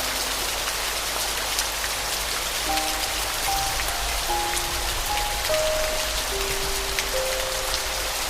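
Steady rain pattering, with a slow, soft piano melody of single held notes entering about three seconds in.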